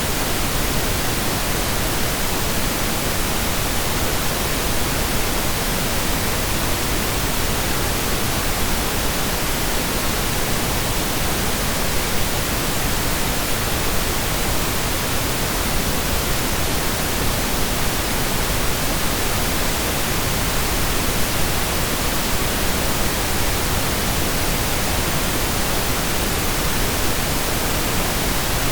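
Steady synthesized pink noise, an even hiss spread across the whole range with equal energy per octave, like rain or a waterfall, unchanging throughout.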